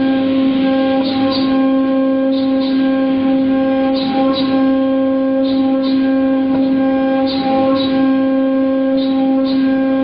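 A machine running with a loud, steady pitched hum, with a pair of short hissing ticks repeating about every one and a half seconds.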